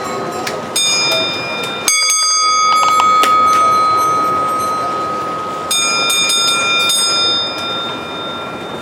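Metallic bell-like rings struck three times, about a second in, two seconds in and near six seconds, each ringing on with bright overtones, over a steady high tone and general hall noise.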